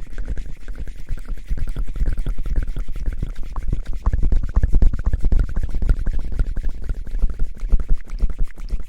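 Close-miked ASMR rubbing and scrubbing right on the microphone: a dense, rapid crackle of tiny clicks with a heavy low rumble, the rustling or hair-washing sounds the stream is built on.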